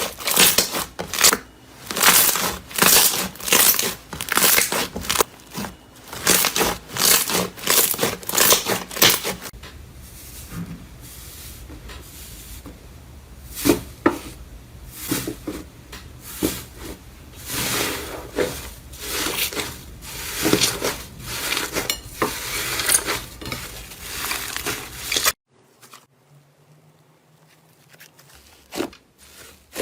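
A crunchy material being crushed in loud, crisp crunches, about two a second. After a cut about nine seconds in, the crackles turn softer and sparser, and the sound stops abruptly near the end.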